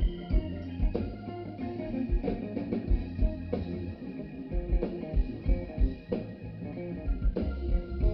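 Live band playing an instrumental passage: guitar over held bass notes and a drum-kit beat.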